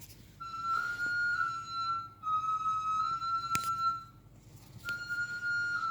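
Background music: a flute playing slow, long held notes in three phrases, with a couple of sharp clicks in the middle.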